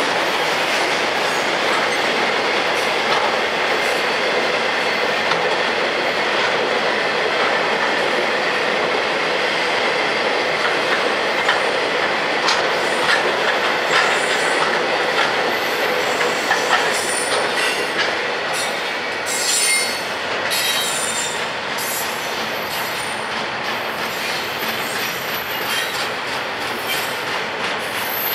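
Freight train cars rolling past close by: a steady rumble and rattle of steel wheels on the rails with a faint, thin wheel squeal. Sharp clicks and clatter come in during the last third as double-stack container cars pass.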